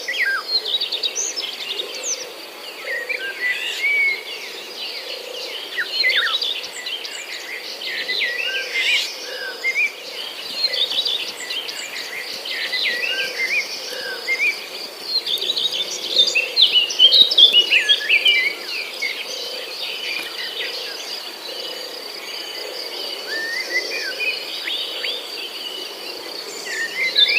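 Songbirds chirping and calling in quick, varied phrases over a steady, high insect-like trill.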